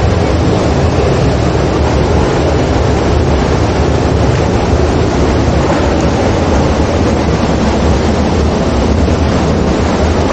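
Steady rush of wind and road noise on the microphone of a moving motorbike, over the low drone of its engine, with no break or change.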